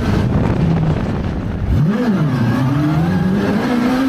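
Vehicle engine running under load, with a quick blip about two seconds in, then revving up with its pitch climbing steadily.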